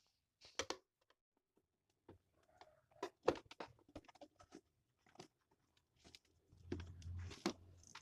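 Irregular clicks, taps and knocks, scattered and uneven, with a brief low hum joining in near the end.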